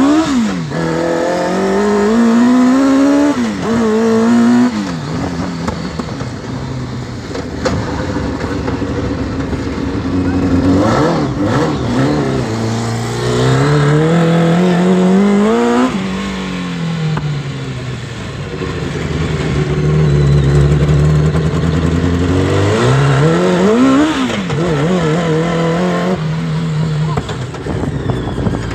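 Truck running on a swapped-in Honda CBR motorcycle engine, revved up and down over and over, its pitch climbing and falling several times with a sudden drop about halfway through.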